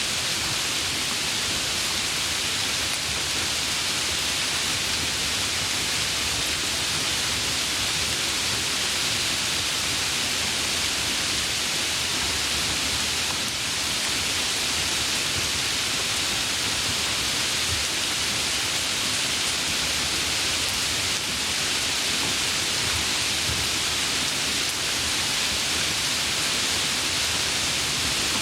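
Steady, heavy rain falling in a continuous even hiss.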